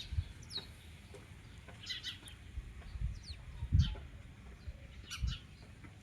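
Birds chirping: short, high notes that fall in pitch, repeated every second or so. A few dull low thumps are heard about three, four and five seconds in.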